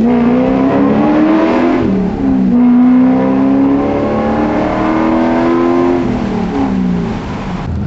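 Corvette Z06 V8 heard from inside the cabin, pulling hard under acceleration. Its pitch climbs, drops at an upshift about two seconds in, climbs again through the next gear, then falls away as the driver lifts off near the end.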